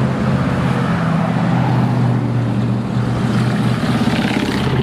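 Motor vehicle engine running steadily with a low hum, under an even hiss of noise.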